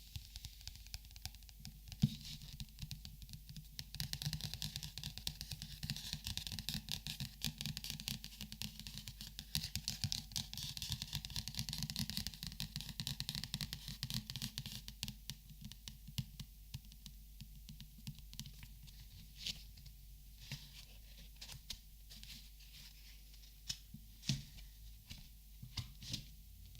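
Close-miked handling of markers and paper: a dense run of fast, scratchy rustling and small clicks for about the first half, then sparser separate light clicks and taps.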